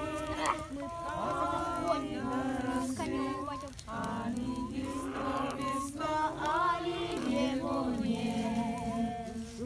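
Several voices singing a song together without accompaniment, their pitches wavering and overlapping.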